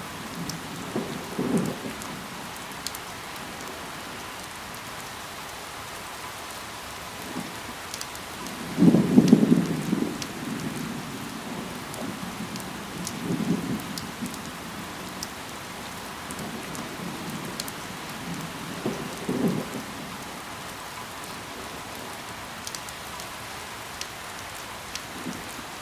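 Steady rain falling on leaves and ground, a constant hiss with scattered individual drop ticks. Short low rumbles break in several times, the loudest about nine seconds in.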